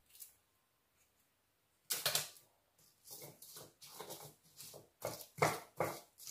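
A string of short, irregular knocks and scrapes, roughly two a second, the loudest about two seconds in.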